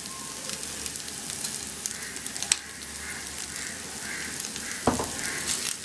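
Chicken pieces and dry spices frying in a little oil in a nonstick pan: a steady sizzle with scattered small crackles. There is a single soft knock near the end.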